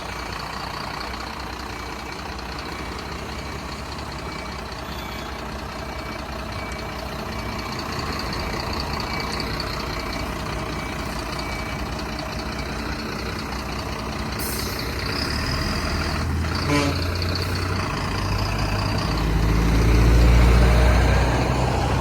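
Heavy truck's diesel engine running while the truck is manoeuvred into place, with a steady run of short reversing beeps over roughly the first twelve seconds. About three-quarters of the way through there is one brief sharp sound, and the engine grows louder toward the end.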